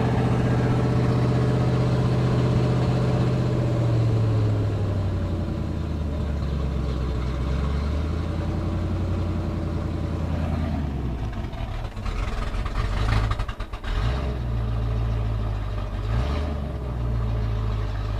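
Freshly rebuilt 351 Windsor V8, converted from fuel injection to a carburettor, idling during its first warm-up; it settles from a fast idle to a slower one about four seconds in and falters briefly around thirteen seconds before picking back up. The idle sounds like it may be missing.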